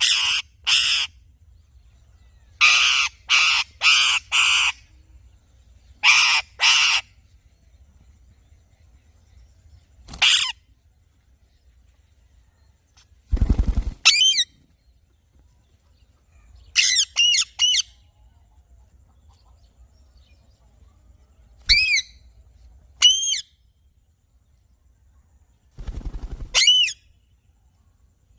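Alexandrine parrot calling in short groups of two to four loud calls, with pauses of a few seconds between groups. The early calls are harsh screeches; later ones are clearer whistled notes that rise and fall.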